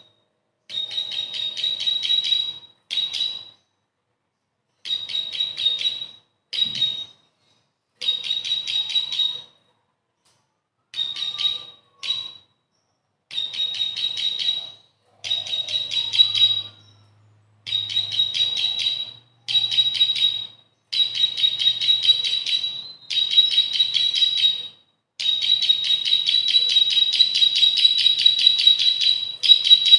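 Bar-winged prinia (ciblek) singing: repeated bursts of rapid, high-pitched chipping notes, each burst a second or two long with short pauses between, running into one long unbroken trill near the end.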